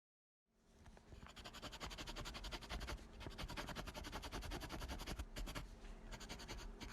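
Rapid, even scratching or rubbing strokes, about ten a second, over a faint steady hum; the sound fades in about half a second in.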